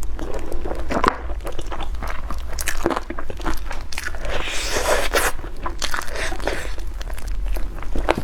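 Close-miked eating: repeated crunchy bites and chewing of food, irregular, with a denser stretch of crunching about halfway through.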